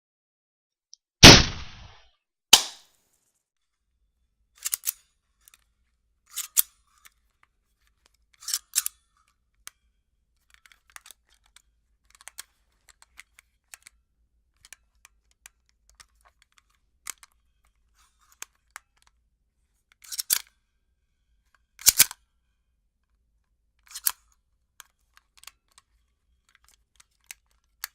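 A single gunshot about a second in, with a short ringing tail, and a second sharp crack a little after. Then a string of short mechanical clicks and clacks, several in quick pairs, spaced a second or two apart, like a gun's action being worked and handled.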